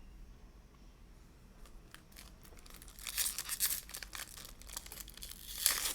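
A trading-card pack's plastic wrapper being torn open and crinkled. It starts about two seconds in, with louder tearing bursts around three seconds and again near the end.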